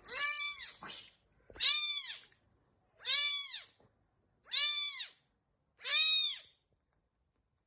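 Cat meowing five times, about a second and a half apart, each call rising then falling in pitch.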